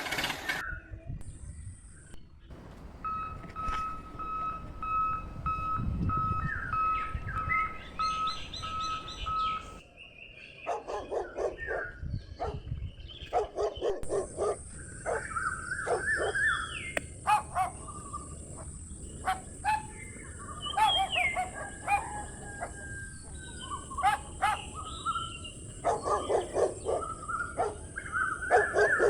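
A dog barking repeatedly in bursts, with birds chirping between the barks. Earlier a steady electronic beeping runs for several seconds and stops, and later a steady high-pitched hiss sets in.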